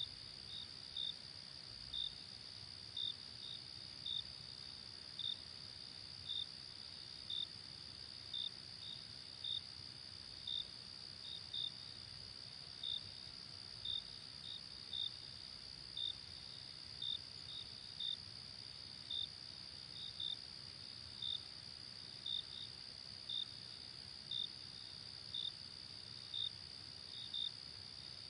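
Night insects, cricket-like: a steady high-pitched trill with short chirps repeating irregularly, about one to two a second, over a faint low hiss.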